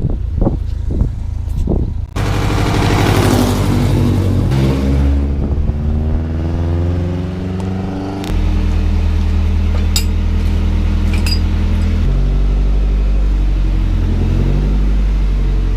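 Car engine running, its pitch wandering up and down for several seconds before settling into a steady idle, with a few sharp clicks near the start.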